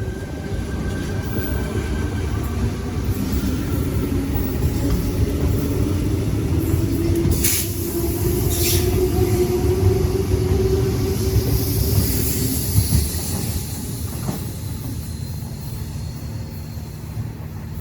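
Sydney Trains Waratah electric train moving along the platform, with a steady rumble and a motor whine that rises in pitch over several seconds and then holds.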